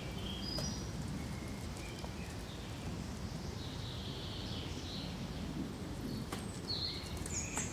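Small birds chirping and calling in short scattered phrases over a steady low rustle of wind through pine trees, with a few sharp clicks, two of them near the end.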